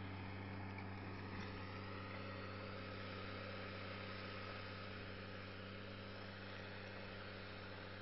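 New Holland T7040 tractor's diesel engine running at a steady, even speed while pulling a disc plough.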